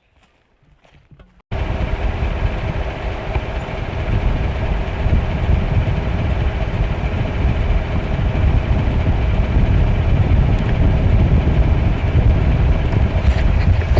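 A few faint footsteps, then a sudden cut about a second and a half in to the loud, steady, low rumble of a truck driving, heard from inside the cab.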